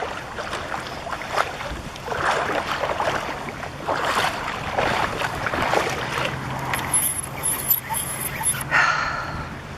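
Splashing steps of someone wading through shallow water, a noisy swish every second or two, over the steady low hum of a boat motor running in the distance.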